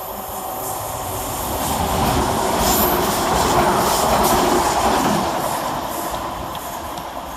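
Class 350 Desiro electric multiple unit running past on the rails. It grows louder to a peak about halfway through and then fades, with a run of clicks from the wheels at its loudest.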